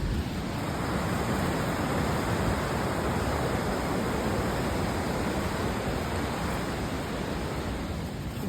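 River water rushing, a steady, even rush that eases slightly near the end.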